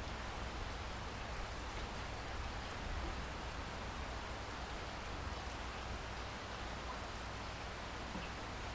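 Steady rain falling, an even hiss with a low rumble underneath and no single drops or breaks standing out.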